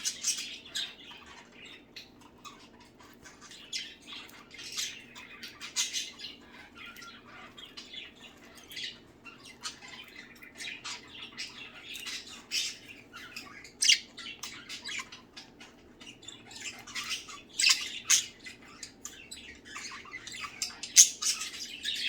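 A flock of budgerigars chattering and squawking, with many short, sharp calls scattered through and the loudest squawks near the end.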